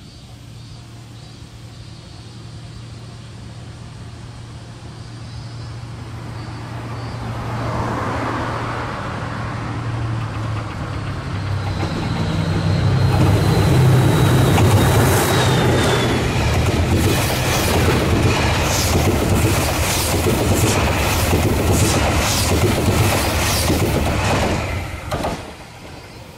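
A train approaches, growing steadily louder, then passes close by with a rapid clickety-clack of wheels over rail joints. The sound cuts off suddenly near the end.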